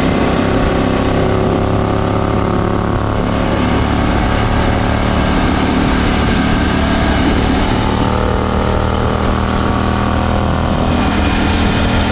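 KTM LC8c parallel-twin engine running through a decatted exhaust with an Akrapovic slip-on silencer, a loud, steady exhaust note.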